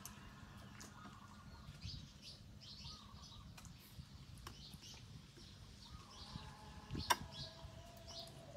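Faint bird chirps repeating over a low steady hum, with a few sharp clicks; the loudest click comes about seven seconds in.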